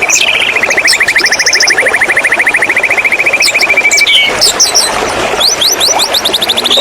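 White-rumped shama singing: a fast trill of rapidly repeated notes for about four seconds, then a series of quick rising whistled notes near the end, over a steady hiss of running water.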